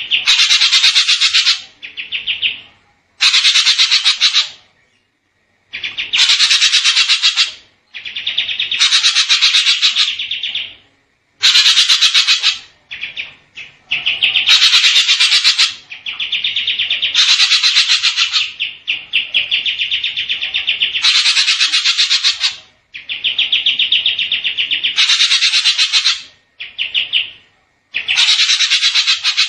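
Songbird masteran recording: a bird sings in repeated phrases of very fast, dense trills, each lasting one to two seconds with short pauses between. This is a tutor song played to teach caged songbirds.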